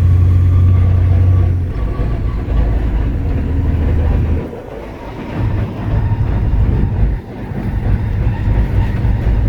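High Roller mega truck's engine and drivetrain heard from inside the cab: a loud low drone that eases off after about two seconds, drops away briefly around the middle, then picks back up.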